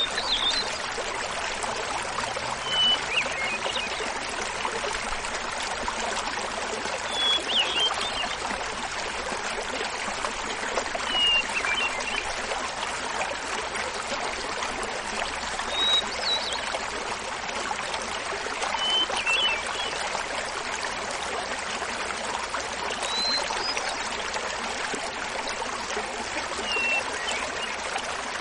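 Small mountain waterfall splashing steadily while a hermit thrush sings. Its short flute-like phrases come about every four seconds, eight in all, each pitched a little higher or lower than the one before.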